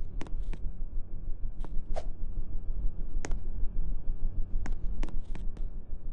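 Casablanca Venus 52-inch ceiling fan running: a steady low rumble with irregular sharp clicks every half second to a second and a half.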